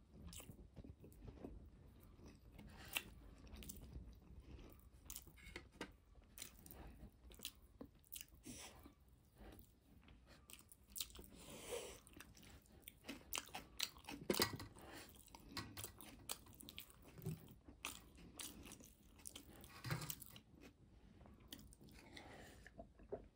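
A person chewing food with the mouth, faint wet clicks and smacks coming irregularly, then a sip of water near the end.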